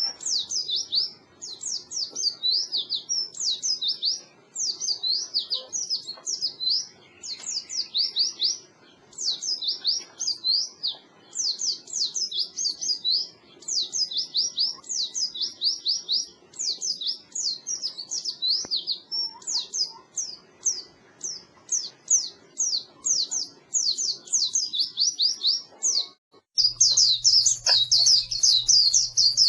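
White-eyes (pleci) singing a rapid, high twittering song of quick sweeping notes in phrases with short breaks. Near the end it switches to a louder, denser stretch of the same song, with a steady low hum underneath.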